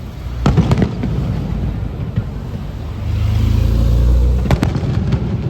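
Aerial fireworks shells bursting overhead: sharp bangs about half a second in and again near the end, with a deep rolling boom swelling in between.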